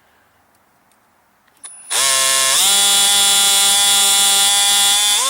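Electric drill motor whining for about three and a half seconds after a small click. Its pitch drops soon after starting as the bit takes load and rises again just before it stops as the load comes off.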